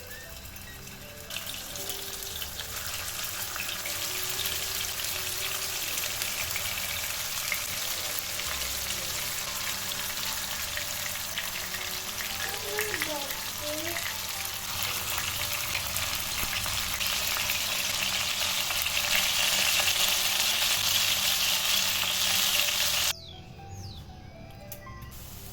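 Food frying in hot oil in a pan, a steady sizzle that grows louder and then cuts off abruptly near the end. Soft background music plays underneath.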